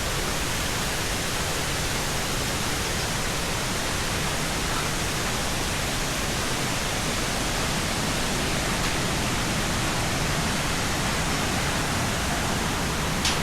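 Steady, even rush of water cascading down a waterfall, with a short click right at the end.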